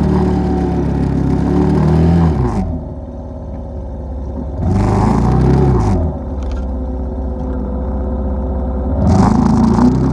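ATV engine under way: the throttle eases off about two and a half seconds in with the engine note dropping, a short burst of throttle comes around five seconds, and the engine pulls hard again near the end.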